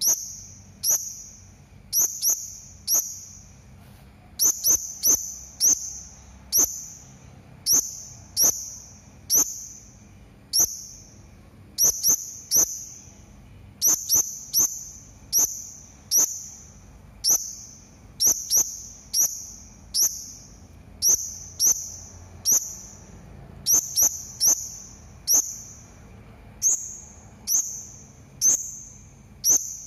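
Hanging parrot (serindit) giving short, sharp, high-pitched call notes over and over, about one to two a second, sometimes in quick pairs.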